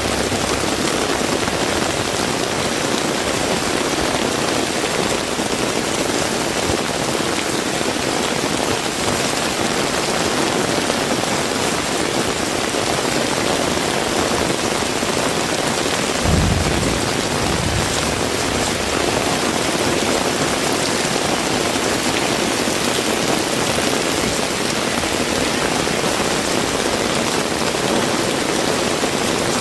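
Heavy rain falling steadily, a dense even hiss of rain on surfaces. About halfway through there is one brief low thump.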